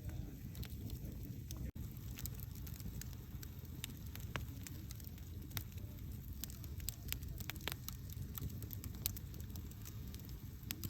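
Wood campfire burning: a steady low rush of flames with scattered sharp pops and crackles from the burning wood.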